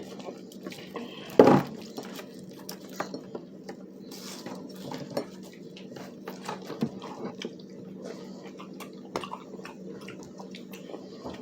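Scattered clicks and clinks of dishes and cutlery being handled at a meal of crispy chicken, with one louder burst about a second and a half in, over a steady low hum.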